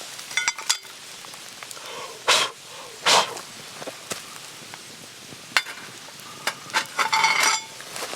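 Camp cooking gear being handled: a brief metal clink about half a second in, two short loud scraping or rustling bursts a little later, and a longer clattering scrape with a ringing note near the end.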